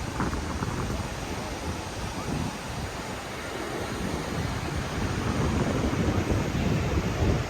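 Ocean surf washing onto the beach, with wind gusting against the microphone.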